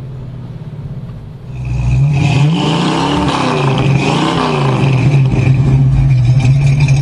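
Scion FR-S flat-four engine through a header-back performance exhaust, running at a steady note, then much louder from about a second and a half in. Its pitch rises and falls twice as it revs, then holds steady.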